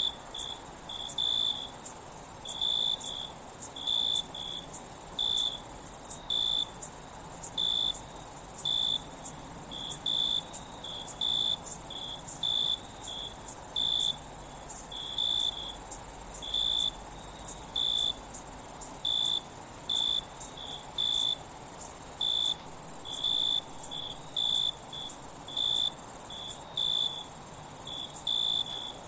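Night insect chorus: a steady, very high-pitched insect trill with crickets chirping over it in short pulses, about one or two a second.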